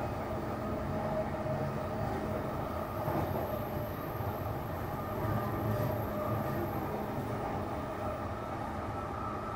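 Running noise of a JR Shonan-Shinjuku Line electric commuter train heard from on board while under way: a steady rumble of wheels on rail with a faint hum over it.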